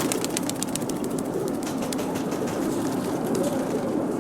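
Domestic pigeons cooing steadily, low and continuous, with a quick run of faint ticks during the first second and a half.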